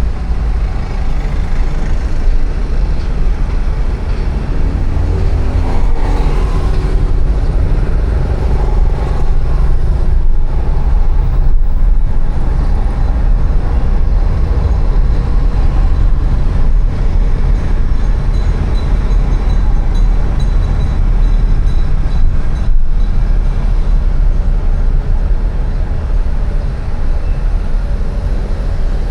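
City street traffic heard from a moving bicycle: a steady rumble of passing cars, motorbikes and other vehicles, with a pitched engine passing about five seconds in.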